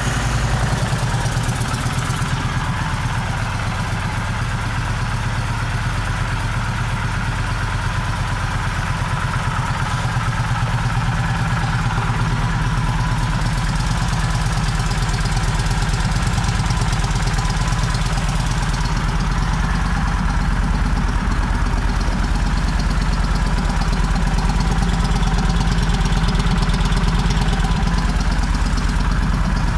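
Kawasaki Vulcan 1600 Classic's V-twin engine idling steadily with an even, low exhaust pulse.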